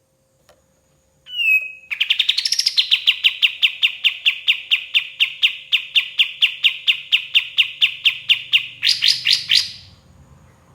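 A kapas tembak songbird singing. After a couple of short downward-sliding notes comes a long run of rapid repeated notes, about six a second, which ends in a few louder, quicker notes.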